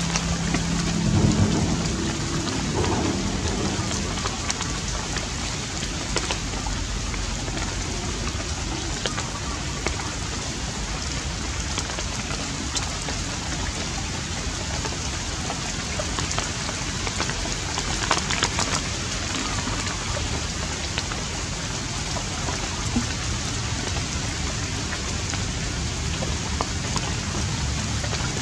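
Steady rain falling, an even hiss with scattered drops pattering, and a brief low rumble about a second in.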